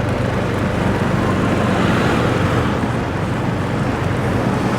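Motorbike engine running steadily while riding, with road and passing traffic noise.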